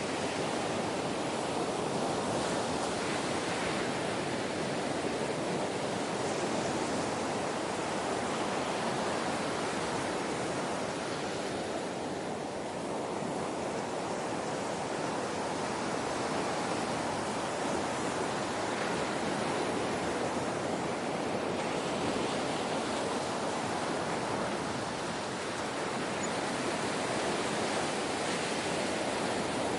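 Ocean waves: a steady wash of surf that swells and eases only slightly, easing a little about twelve seconds in and again near twenty-five seconds.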